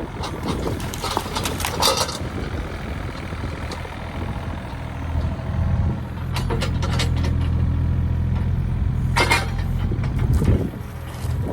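An engine idling steadily, with a few knocks and clatters over it, the loudest about two seconds in and again near the end.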